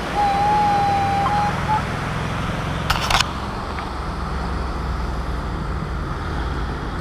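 Metal detector target tone: one steady, slightly wavering beep of about a second and a half, marking a coin target that turns out to be a penny. About three seconds in comes a short hissing rattle, over a steady low rumble.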